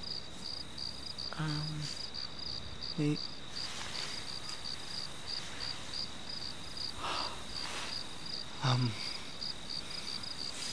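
Night-time crickets chirping steadily in a fast pulsing rhythm, about four chirps a second, over a steady high insect drone. A man's voice makes a few short low sounds without words, about a second and a half in, around three seconds in and near the end.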